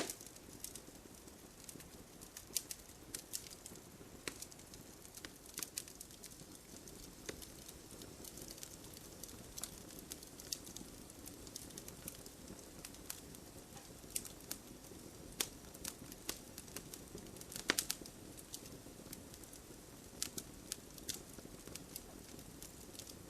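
Campfire crackling: a low steady hiss under irregular sharp pops and snaps from the burning wood, a few of them louder, about ten and eighteen seconds in.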